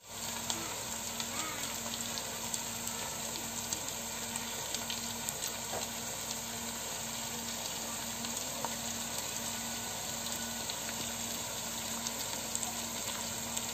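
Salmon fillets frying in oil with sliced onions and garlic in a pot: a steady sizzle with small crackles and pops.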